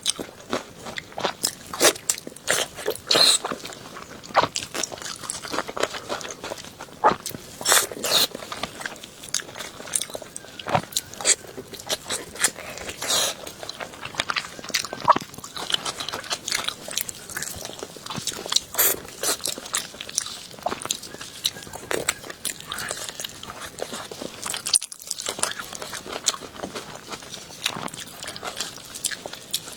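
Close-up biting and chewing on a beef bone: irregular crisp crunches and clicks of teeth on hard meat and bone, with wet chewing between them.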